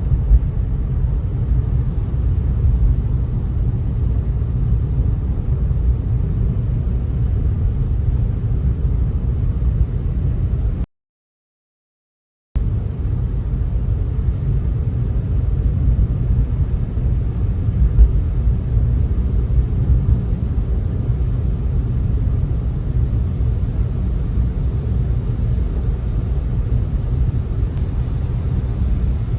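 Car driving: a steady low rumble of road and tyre noise, cutting out completely for about a second and a half near the middle.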